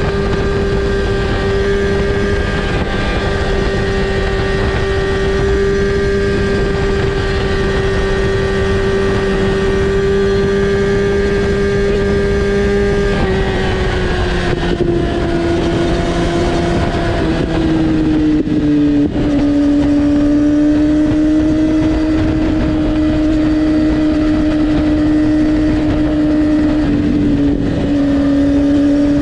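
Kawasaki ZX-6R's inline-four running through an Akrapovic exhaust with the dB killer removed, held at steady high revs. About thirteen seconds in, the note eases down in pitch over several seconds, then holds steady at a slightly lower pitch.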